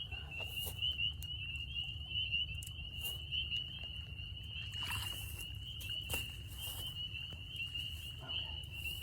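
Dense night chorus of spring peepers: a steady, high-pitched trill of overlapping peeps. Brief rustles and splashes come now and then over a low steady rumble.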